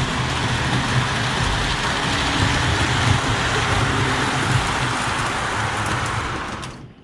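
Model steam locomotive running along the track to couple onto its cars: a steady rumble and hiss that dies away and stops just before the end.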